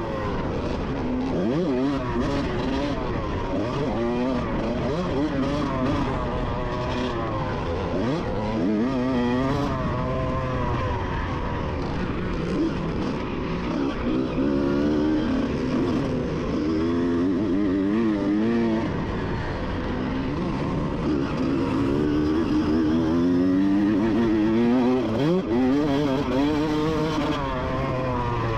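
Vintage two-stroke 125 cc motocross bike engines racing, the pitch climbing and dropping over and over as the throttle is opened and shut, with a few sharp drops and quick climbs back.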